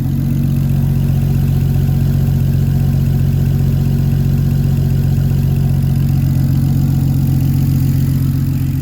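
BMW N54 straight-six, converted to a Precision 6875 single turbo, idling steadily.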